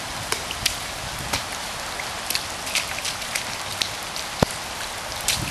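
Heavy rain pouring down: a steady hiss of rain with scattered sharp ticks of drops landing close by.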